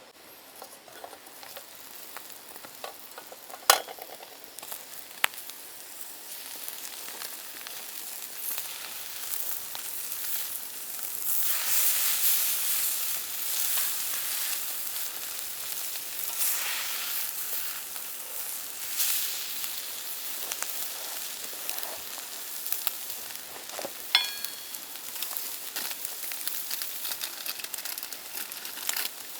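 Food sizzling as it fries in a pan, the hiss swelling and easing, loudest about a third of the way in. A few sharp knocks of utensils break in, one ringing briefly near the end.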